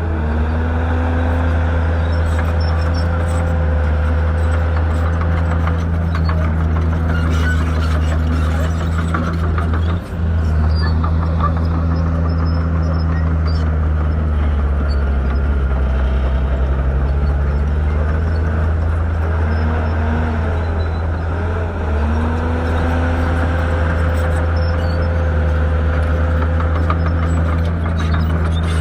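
Shantui bulldozer's diesel engine running steadily, its pitch falling and rising several times as engine speed changes, with a brief drop in level about ten seconds in.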